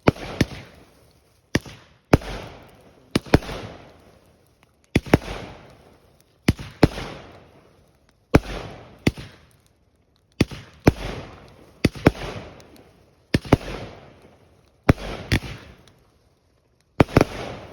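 Fireworks going off in a steady series of sharp bangs, about one every one to two seconds, each followed by a fading crackle.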